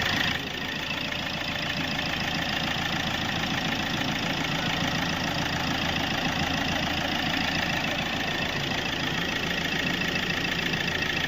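Hyundai Creta diesel engine idling steadily. It runs with what sounds like its normal, original note, although the engine has a fault that calls for an overhaul.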